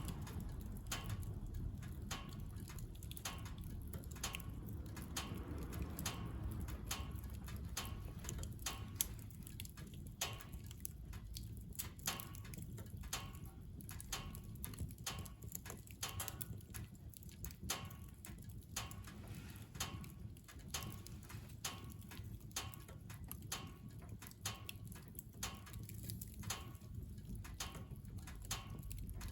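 Firewood burning in a wood stove, crackling with irregular sharp pops and ticks over a low steady rumble.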